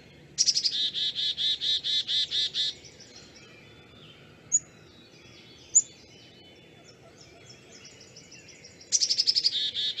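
Black-capped chickadee giving its chick-a-dee-dee-dee call twice, about a second in and again near the end: each is a couple of quick high notes followed by a fast run of repeated lower dee notes, lasting about two seconds. Between the calls are two short, sharp high notes over faint background.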